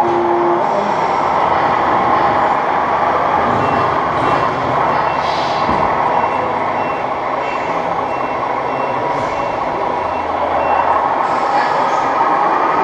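Reversing beeper of a 1:14 scale RC truck's sound module, giving short high beeps at an even pace, over steady loud noise.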